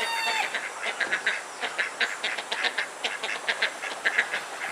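Backyard poultry giving many short, rapid calls, a steady chatter of clucks and quacks.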